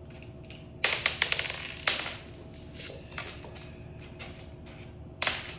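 Sharp metallic clicks and clatter from tools or bike parts being handled: a quick run of clicks about a second in, a single louder knock near two seconds, and a short rattle near the end, over a faint steady hum.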